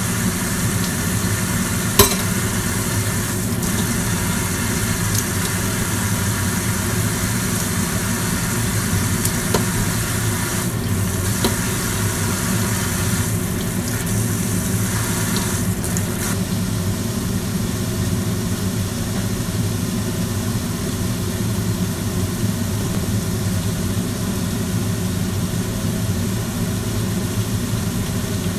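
Food sizzling in a wok on a gas stove over a steady low hum from the kitchen range hood fan, with one sharp clack of the spatula on the wok about two seconds in. The sizzle thins in the second half.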